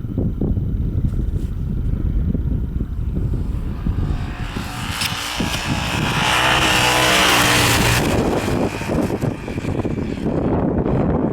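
Yamaha TDM 850 parallel-twin motorcycle engine running under load while riding through deep snow. Midway a loud hiss swells for a few seconds with the engine note rising, then eases.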